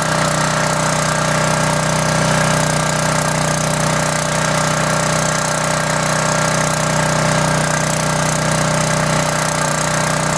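Emergency generator's engine running steadily at a constant speed, a continuous hum.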